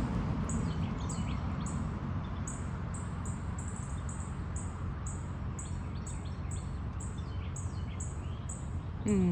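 A small bird chirping, short high-pitched notes repeated about twice a second, over a steady low outdoor rumble. A person's voice begins at the very end.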